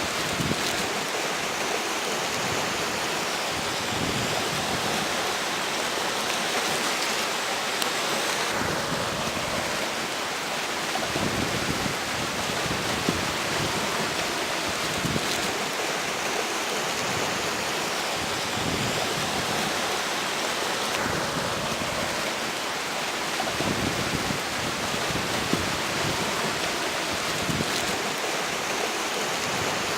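River water rushing steadily along its bank, with strong wind gusting over it. Gusts come and go every few seconds and rumble on the microphone.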